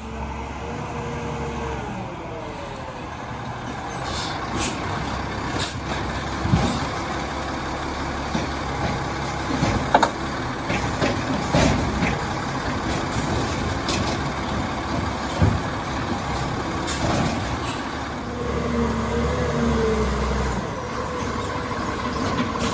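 Garbage truck with an Amrep HX-450 automated side loader at work: the engine runs steadily while the hydraulics whine twice, near the start and again late on, with scattered clanks and short air-brake hisses.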